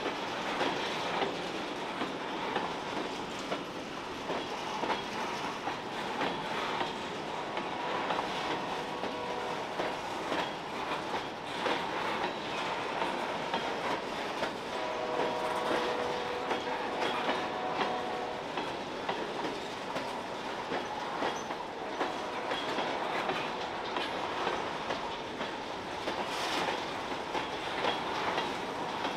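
Freight train of covered hopper cars rolling past, with the wheels clacking over the rail joints steadily and the track creaking under the cars. Twice in the middle a thin squealing tone is held for a few seconds.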